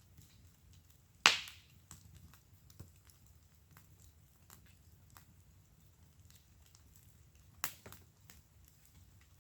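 Wood fire crackling in a fire pit: scattered small crackles, with two loud sharp pops, the louder about a second in and another near the end, over a faint low rumble.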